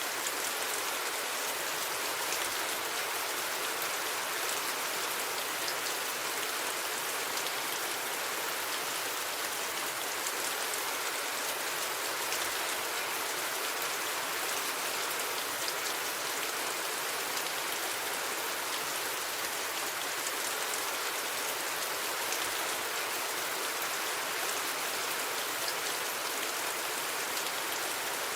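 Steady rain falling: an even, unbroken hiss with individual drops ticking through it and no thunder.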